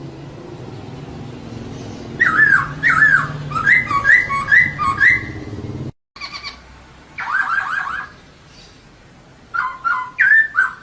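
Female poksay (laughingthrush) calling in bursts of quick, repeated down-slurred squawking notes, three bouts separated by pauses. A low background hum in the first half stops abruptly at a break near the middle.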